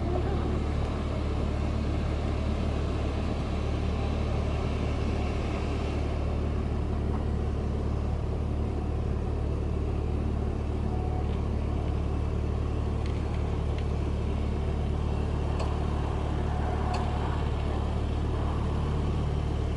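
Steady low rumble of a moving car, road and engine noise heard from inside the cabin with the windows up, with a few faint ticks.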